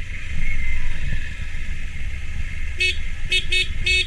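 Motorcycle riding in second gear: steady low engine and wind rumble. From about three seconds in come four short, high, horn-like toots in quick, uneven succession.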